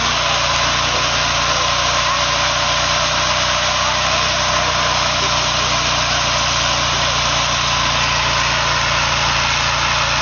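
Car engine running loud and steady, without rising or falling revs.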